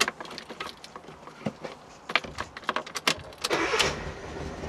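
Clicks from the ignition key and choke, then a Fiat Panda 4x4's FIRE petrol engine cranking and catching about three and a half seconds in with the choke pulled out, settling into a steady low idle.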